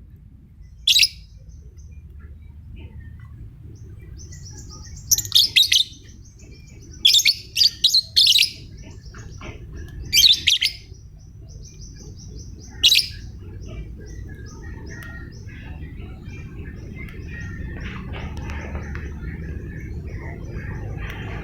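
Lovebird calling: sharp, high-pitched calls in short bursts, repeated over the first thirteen seconds, with softer chattering between them that grows denser later on. A steady low rumble of background noise runs underneath.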